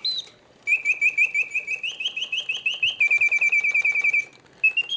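Reuge mechanical singing bird cage whistling its bellows-driven birdsong: rapid trills of repeated chirps that step up and down in pitch, broken by a short pause just after the start and another near the end. The birds sing with full voice, hitting the proper oscillating notes.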